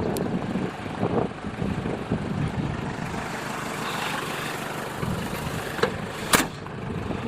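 Nissan Vanette's 2.2-litre diesel engine idling steadily, with a couple of short sharp clicks about six seconds in.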